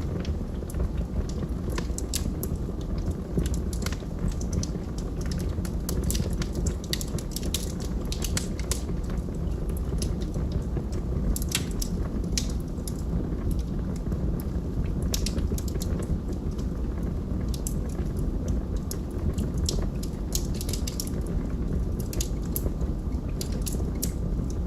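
Log fire burning, with irregular sharp crackles and pops over a steady low rush of flame.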